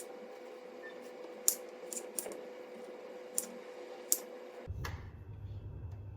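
Half a dozen sharp, separate clicks or taps, irregularly spaced, over a steady hum. A little before the end the sound cuts abruptly to a low rumble.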